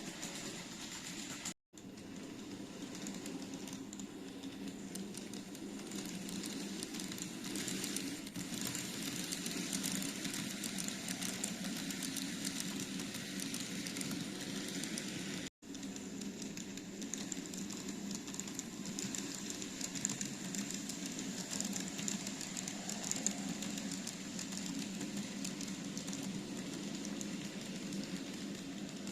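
TOMIX N-scale Kintetsu 50000 series Shimakaze model train running on track: a steady whirr of motor and wheels on the rails. The sound drops out completely twice, briefly, about one and a half seconds in and again about fifteen seconds in.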